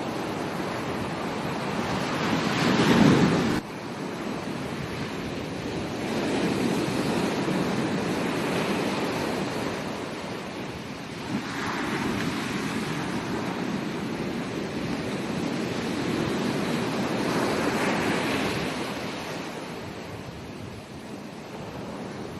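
Ocean waves breaking on a beach, the surf rising and falling in slow swells every few seconds. The loudest surge comes about three seconds in and cuts off suddenly.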